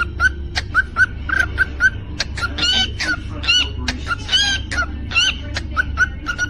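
Cockatiel singing: a run of short, quick chirps, about three a second, broken in the middle by a few longer arching whistled notes, over a steady low hum.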